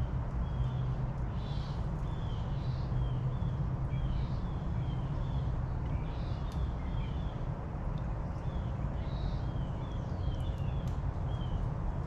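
Backyard songbirds chirping, many short high notes repeated throughout, over a steady low rumble.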